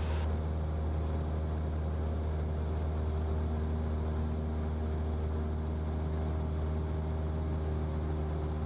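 Cessna's single piston engine and propeller droning steadily, heard inside the cabin in flight, with a strong low hum and even, unchanging pitch.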